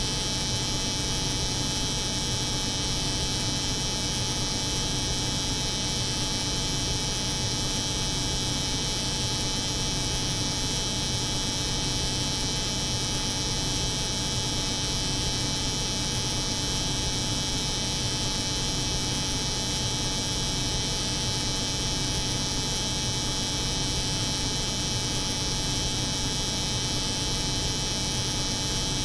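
Steady layered noise: a cold room's refrigeration unit humming together with an electric hair clipper buzzing, with a bright hiss on top and no change in level.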